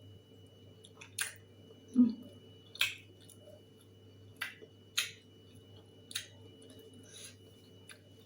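A person eating: crisp chewing and biting clicks roughly once a second, with a short low sound about two seconds in.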